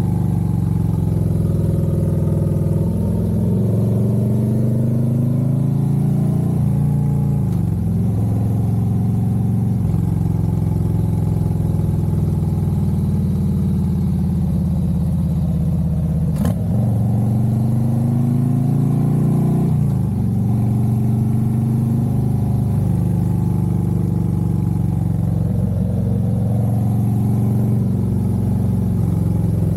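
Harley-Davidson Road Glide's V-twin engine pulling on the road. Its pitch climbs as it accelerates and drops sharply several times as it shifts gear or rolls off the throttle.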